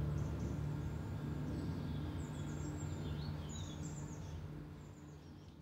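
Birds chirping in short high calls over a low steady hum, the whole fading out near the end.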